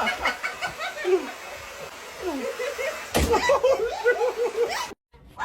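A person laughing in quick, repeated bursts, with a longer run of laughter starting about three seconds in that cuts off suddenly near the end.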